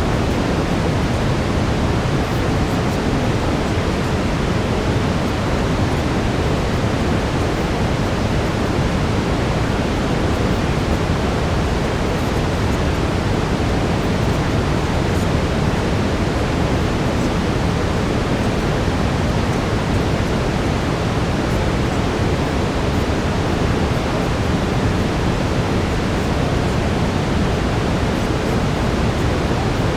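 Steady brown noise, a deep, even rushing hiss strongest in the low range, as used for relaxation and sleep; any affirmations mixed beneath it are not heard.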